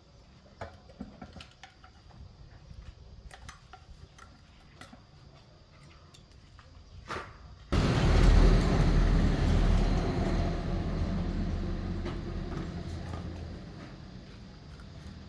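Light clicks and taps of parts being handled. About eight seconds in, an air compressor starts abruptly and runs with a steady low hum, growing gradually quieter.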